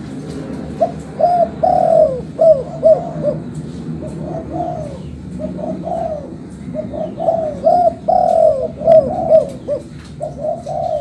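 Spotted dove (tekukur) cooing: repeated phrases of several short notes, with one louder phrase near the start, another about two-thirds of the way through, and quieter phrases between them, over a steady low background noise.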